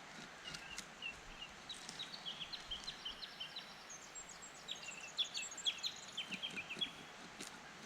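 Small birds calling in quick runs of short, high chirps and trills, over the steady rush of a flowing river.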